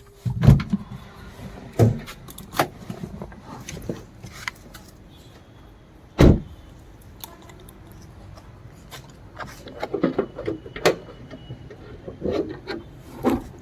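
Clicks, knocks and one heavy thump about six seconds in from handling a 2021 Renault Kwid's doors and bonnet latch, as the car is opened up to show the engine.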